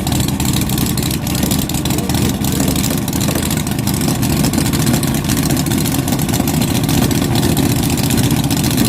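Big-inch V8 rail dragster engine idling steadily and loudly, its firing pulses closely spaced and even.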